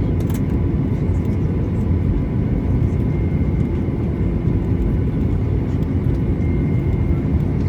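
Steady low rumble inside the cabin of a Boeing 737-800 on the ground after landing, with a faint high tone running through it.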